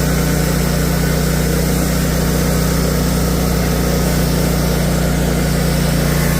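Lawn mower engine running at a steady speed, with no change in pitch.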